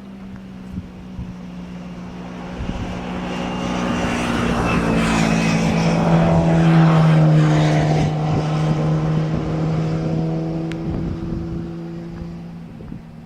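Propeller aircraft flying over, its engine drone growing louder to a peak about seven seconds in, then fading away.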